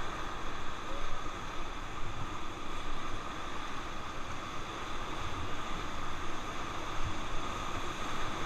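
Steady rush of river rapids around a raft, with wind rumbling on the microphone now and then.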